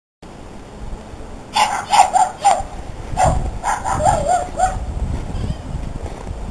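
A dog barking nearby in short, high yaps, in two quick runs of about four or five barks each.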